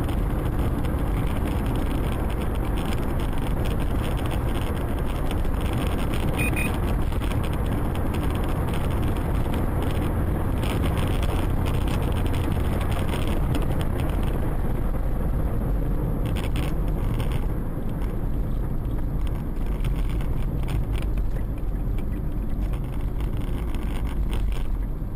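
Steady rumble of a moving car's road and engine noise, holding an even level throughout, with a few faint clicks and no clear crash impact.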